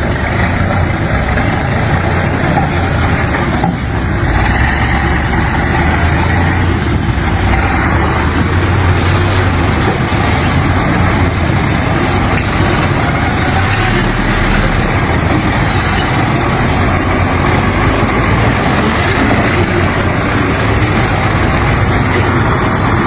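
Truck engine running steadily and loudly, a continuous low drone with dense mechanical noise over it.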